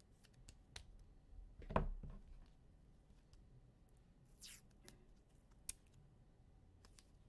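Quiet handling sounds: scattered light clicks and rustles, with one louder knock about two seconds in and a brief swish a little after four seconds.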